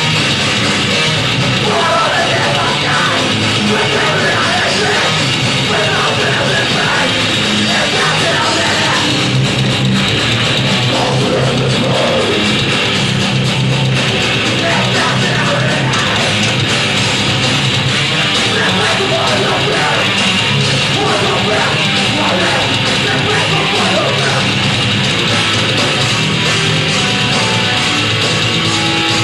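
A loud heavy rock band playing live, with distorted electric guitars, drums and shouted vocals, as recorded from the audience.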